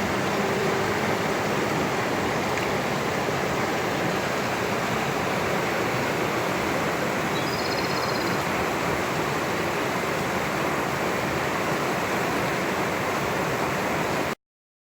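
Steady rushing of a mountain stream, with a brief high chirp about halfway through; it cuts off abruptly near the end.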